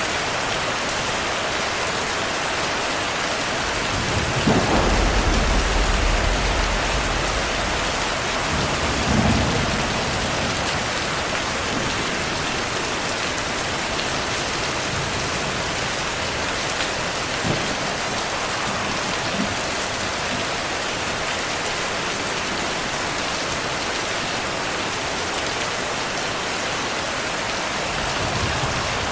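Steady heavy rainfall with thunder. A deep rumble rolls in about four seconds in and lasts several seconds, a second swell of thunder comes a little later, and a couple of short, sharper cracks follow near the middle.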